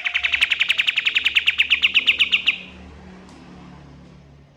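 Kapas tembak songbird singing a fast, staccato trill of about ten clear notes a second, ending abruptly about two and a half seconds in. A faint low hum remains after it.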